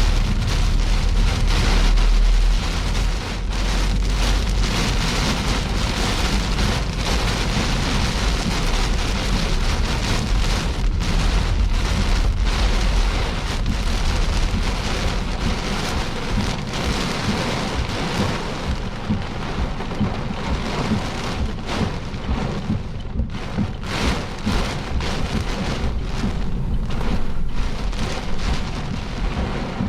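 Heavy rain hitting a car's roof and windshield during a severe thunderstorm, heard from inside the car as a dense, loud patter. A deep low rumble underlies the first half, and the rain eases somewhat after about 18 seconds.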